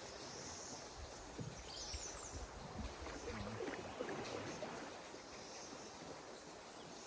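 River ambience: a steady rush of flowing water, with a few brief high chirps about two seconds in.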